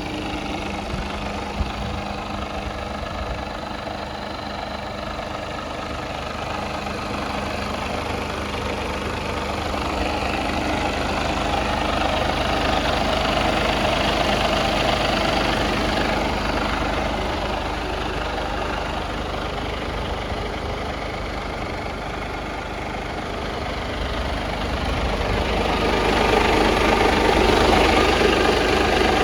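2018 Mercedes Actros 1948's diesel engine running steadily at idle, growing louder in the middle and again near the end.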